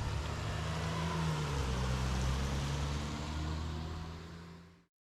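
Motor vehicle engine and road noise, a steady low hum that fades away near the end.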